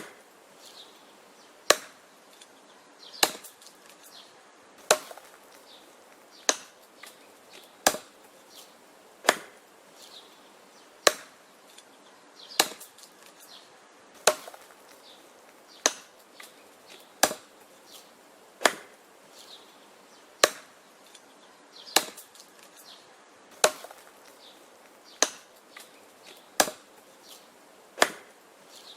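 Wood being chopped with an axe: a sharp chop about every second and a half at an even pace, with fainter knocks in between.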